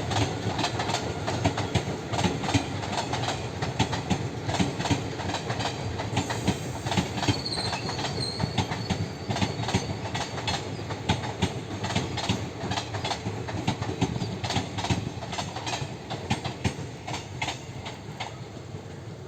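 Passenger train running on the line, its wheels clattering over rail joints in a rapid, uneven run of clicks over a steady rumble, with a faint high squeal about a third of the way in.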